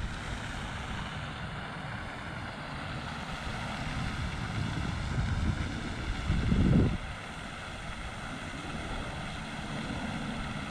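Steady distant engine drone with wind rumbling on the microphone, and a stronger low surge of wind about six and a half seconds in.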